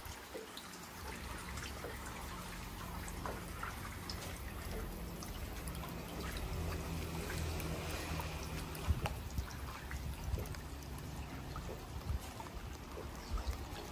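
Rain with water trickling and dripping, scattered small drip ticks, and a low steady hum underneath that fades out about two-thirds of the way through.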